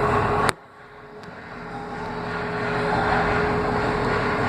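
Microwave oven running with a steady hum and a constant tone. About half a second in, a click, after which the hum drops away and then comes back gradually.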